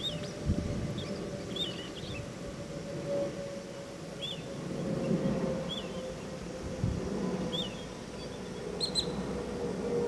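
A small bird's short, high chirps, repeated irregularly about once a second, over a faint steady hum and low wind rumble.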